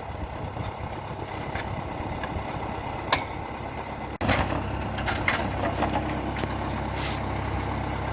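Valmet 705 tractor's diesel engine running steadily, with a couple of sharp knocks about three and four seconds in.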